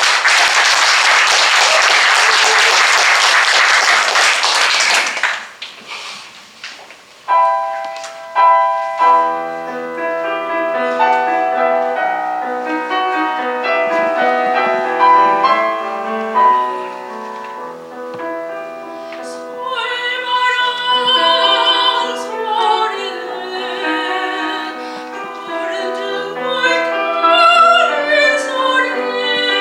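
Audience applause for about five seconds, then a short pause before a piano introduction to a Korean art song begins. A soprano with vibrato joins the piano from about twenty seconds in.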